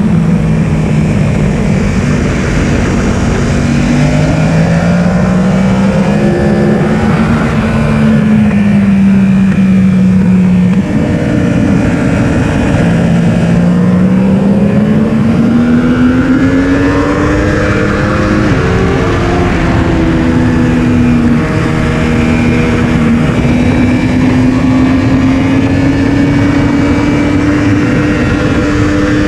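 Yamaha R1's inline-four engine at speed on track, heard onboard. The engine note climbs and falls as the rider accelerates, shifts and brakes, with sharp pitch changes about a third and about two thirds of the way in, over a constant rush of wind noise.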